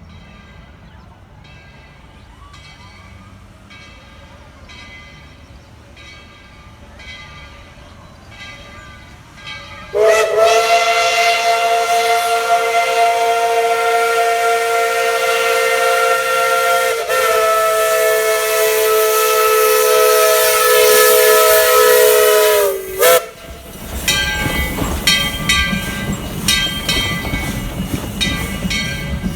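Steam locomotive whistle of Tweetsie Railroad #12, a Baldwin 4-6-0, sounding one long chime blast of about thirteen seconds, several tones at once, sagging in pitch as it shuts off. Faint regular beats of the running train come before it, and the train runs louder and closer with a steady beat after it.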